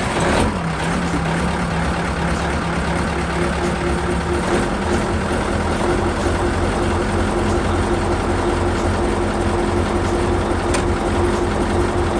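1993 Mack V8 diesel truck engine on a cold start after sitting a month: it fires up right at the start, the revs flare and drop quickly, and it settles into a steady, loud idle. About four and a half seconds in, the idle pitch steps up slightly.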